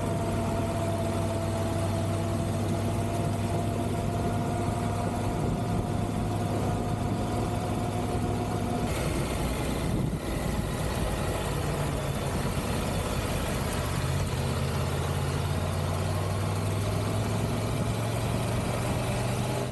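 Triumph Tiger 1200 GT Pro's three-cylinder engine running at a steady road speed, with wind rushing past the bike. About halfway through there is a brief dip and the engine note changes, then it runs steadily again.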